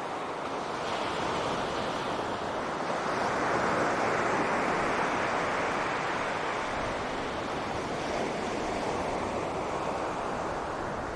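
Sea surf washing onto a beach: a steady rush of waves that swells about a second in and eases off toward the end.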